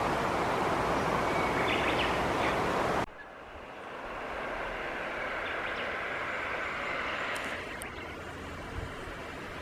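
Steady road and engine noise of a car driving, which cuts off abruptly about three seconds in to a quieter outdoor background with faint bird calls.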